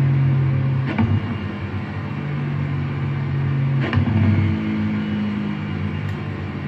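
Sports car engine running at a steady pitch, with two sudden cracks about three seconds apart and a change in pitch after the second.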